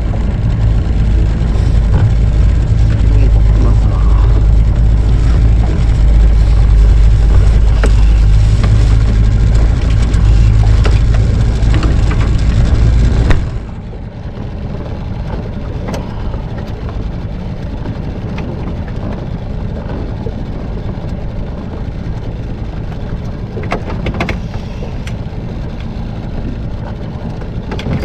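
Mercury 9.8 hp outboard on a mini boat running under way, a loud steady rumble with water and wind noise. About halfway through it drops abruptly to a quieter, steady noise.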